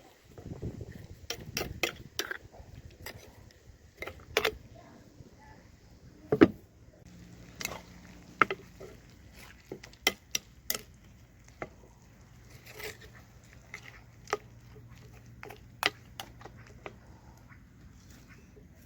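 Scattered clinks and knocks of cooking utensils and dishes being handled, one sharp knock at a time, the loudest about six seconds in.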